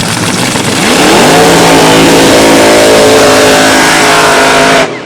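Drag-racing Fiat Topolino's engine revving up sharply about a second in, then held at high revs, loud and steady, until it cuts off suddenly near the end.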